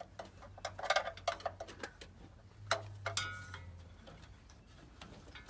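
Scattered light metallic clicks and taps of hand tools and parts being worked while an engine is lined up with its gearbox bell housing, over a low steady hum.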